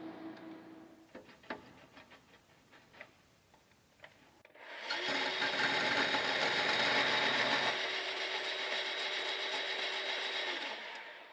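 A few light clicks of handling, then a power tool starts about five seconds in and runs steadily under load for about six seconds, its cutting noise easing partway through before it winds down.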